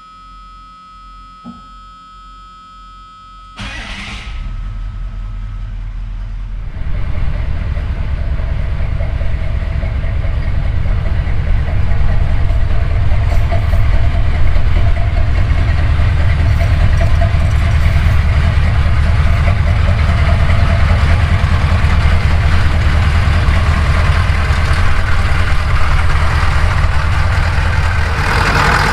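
1983 Chevy K10's diesel V8 being started: the starter cranks it from about three and a half seconds in, the engine catches about seven seconds in, and then it idles steadily.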